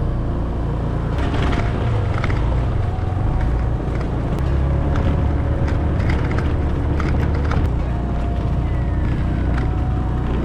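A motorbike running on the move, with a steady low rumble of wind on the microphone. A faint falling whine passes near the end.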